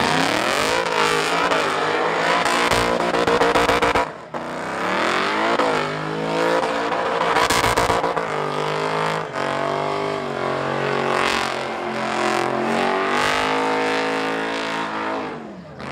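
Supercharged V8 engine of an Ultra4 race car revving hard and repeatedly during a burnout, its pitch climbing and falling. The engine drops off sharply about four seconds in, then revs up again.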